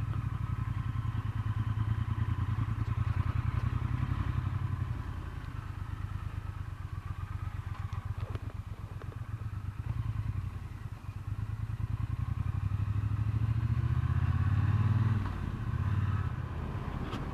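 Triumph Bonneville T120's parallel-twin engine running on the move. It eases off in the middle, pulls harder again, and briefly dips about three-quarters of the way in.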